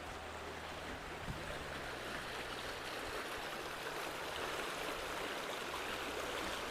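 Creek water rushing steadily as it flows through a cleared culvert.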